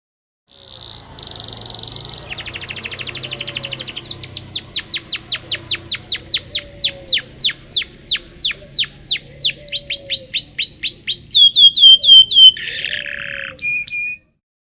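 Local canary singing one long song phrase. It opens with a fast high trill, then runs into a long series of loud descending whistled notes at about four a second, and ends with a few short lower notes and a brief harsh buzz before stopping abruptly.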